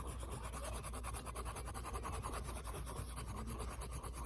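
Pencil rubbing quickly back and forth on paper, shading in a drawing, in a fast even run of scratchy strokes over a steady low hum.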